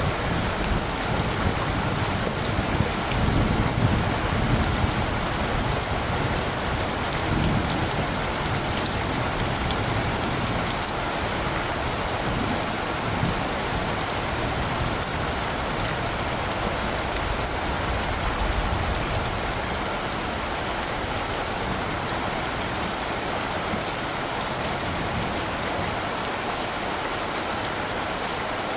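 Steady rain falling, an even hiss of drops throughout, with a low rumble of distant thunder swelling a few seconds in and again briefly a few seconds later.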